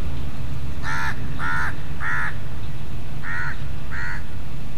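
A bird calling five times: three short calls close together, a pause, then two more. A steady low rumble runs underneath.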